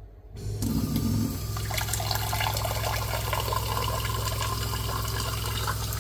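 Water running steadily, with a steady low hum underneath; it starts about half a second in.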